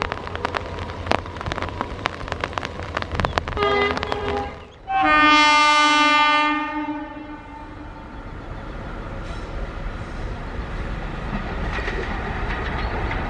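Train wheels clicking rapidly over rail joints, with a short horn blast about four seconds in. A loud locomotive horn then sounds for about two and a half seconds and fades, followed by the steady rumble of a train that slowly grows louder.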